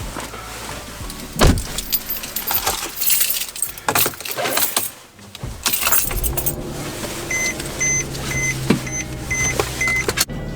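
Car keys jangling and rattling with clicks and knocks as someone gets into a car. About six seconds in a car engine comes on with a steady low hum, and soon after a dashboard warning chime beeps evenly about two or three times a second until everything cuts off suddenly near the end.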